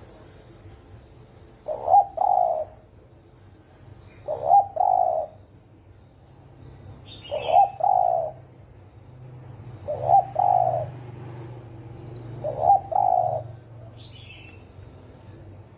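Spotted dove cooing: a short phrase of coos repeated five times, about every two and a half seconds. A small bird gives a brief faint chirp twice.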